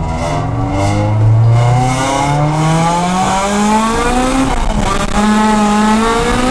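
Honda Integra DC2 Type R's VTEC four-cylinder engine revving up hard under acceleration, pitch climbing steadily, with a gear change about four and a half seconds in before it pulls again in the next gear.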